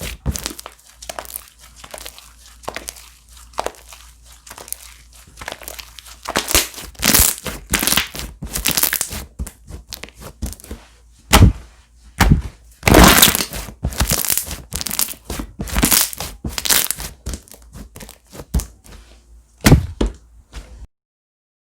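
Slime being squished, pressed and stretched by hand, giving a dense, irregular run of crackling pops and squelches, with louder pops around the middle. It stops abruptly near the end.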